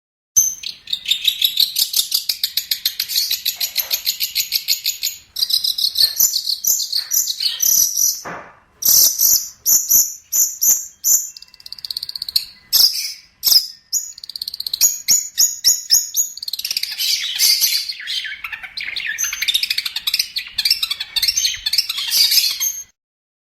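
Long-tailed shrike (cendet) singing a fast, varied chattering song of rapid high notes. It opens with a dense trill, breaks into separate phrases with short gaps, and turns to a denser scratchy chatter near the end before cutting off abruptly.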